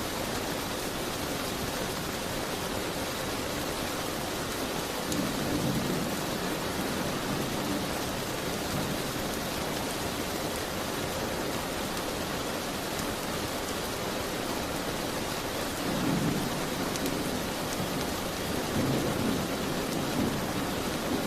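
Steady rain falling, with a low rumble swelling up three times: about five seconds in, about sixteen seconds in, and near the end. A few faint crackles of a wood fire sit over the rain.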